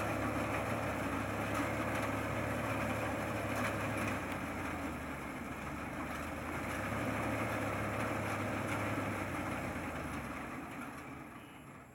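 A motor vehicle engine runs steadily, then fades away over the last two seconds or so.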